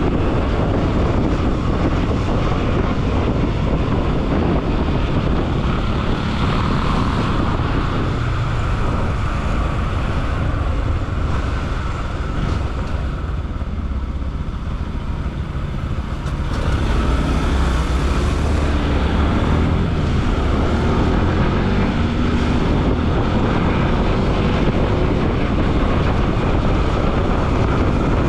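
Bajaj Pulsar NS200 single-cylinder motorcycle riding in city traffic, heard from on board: the engine running steadily under wind rush on the microphone. It goes quieter for a few seconds near the middle, then picks up again.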